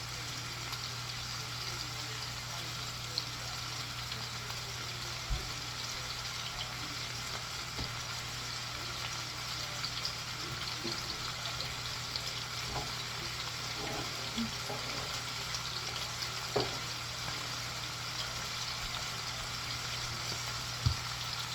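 Food sizzling steadily in a hot pan over a low steady hum, with a few sharp knocks now and then.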